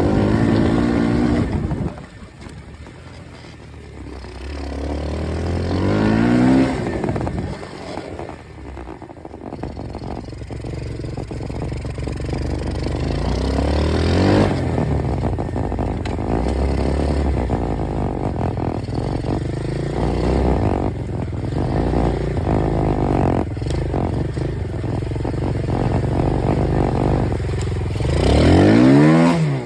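Dirt bike engine being ridden, revving up and easing off over and over: its pitch climbs about six seconds in, again around fourteen seconds, and in a loud run near the end, with a quieter off-throttle stretch a few seconds in.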